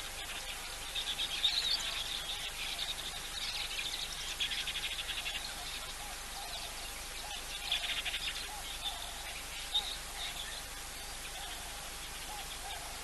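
Wild birds calling around an African waterhole: bouts of high chirps and buzzy trills, with short, lower repeated notes joining about halfway through, over a steady faint hiss.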